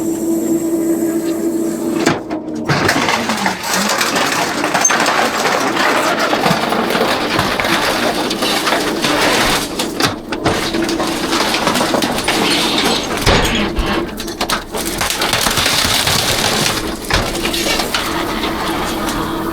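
Rear-loader garbage truck's packer crushing and compacting a load of trash: dense crackling, clattering and breaking, over a steady low hum that comes and goes, with brief lulls.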